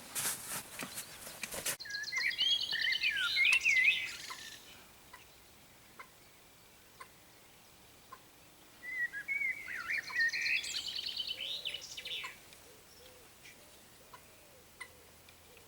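A small songbird singing two phrases of rapid trills and warbling notes, several seconds apart. A brief loud rush of noise comes before the first phrase.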